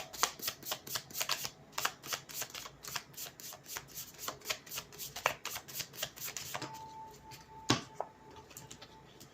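Deck of tarot cards being shuffled by hand: a quick run of flicking, slapping card clicks that stops about six and a half seconds in, followed by one sharper card snap near eight seconds.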